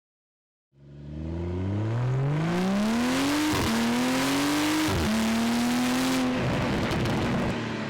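Car engine accelerating hard, its pitch climbing through the gears with two quick upshifts, then easing off near the end.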